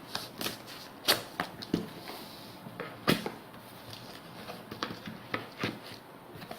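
Scattered sharp knocks and clicks, about eight of them and uneven in spacing, of hands handling a boxed fan heater and its cardboard packaging.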